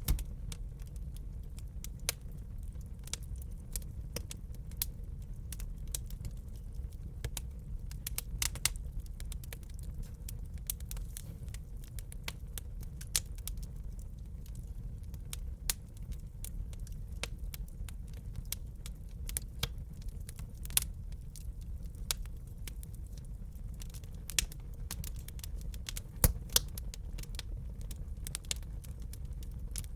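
Wood fire crackling in a fireplace: irregular sharp pops and snaps over a steady low rumble of burning, with a few louder pops.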